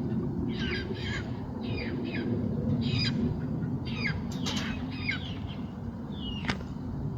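Chickens squawking, a run of short harsh calls that each fall in pitch, about one or two a second, over a steady low rumble. A single sharp knock near the end.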